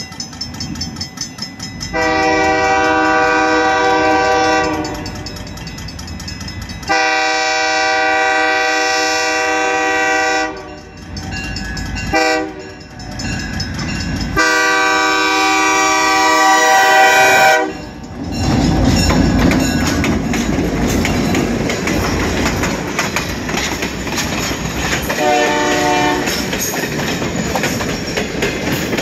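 Diesel locomotive air horn sounding the grade-crossing signal of two long blasts, a short one and a final long one, at full volume. Then the locomotive and passenger cars rumble past close by, their wheels clacking over the rail joints.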